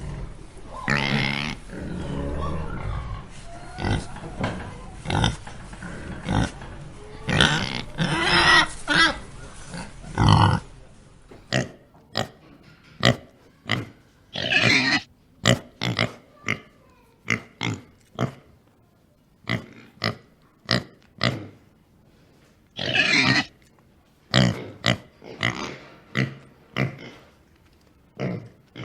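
Pigs grunting and oinking. For about the first ten seconds the grunts and calls come thick and overlapping. After that, a different recording takes over with short, separate grunts, at times several a second, and a couple of longer, louder calls.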